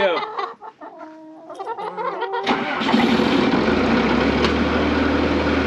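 Skid steer's diesel engine cold-started after two days unused, glow plugs pre-heated: it catches about two and a half seconds in and then runs steadily and loudly, settling into a steady low beat.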